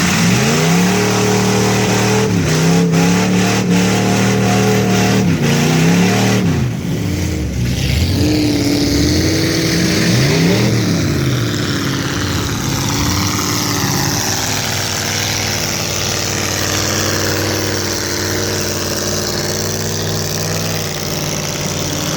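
Off-road vehicle's engine revving hard through the mud, the pitch climbing and dropping several times over the first ten seconds or so, then running at a steadier speed.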